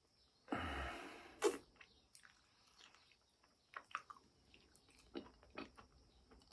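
Close-up mouth sounds of eating soft durian flesh: a loud noisy burst about half a second in that ends in a sharp click, then scattered short smacking clicks of chewing.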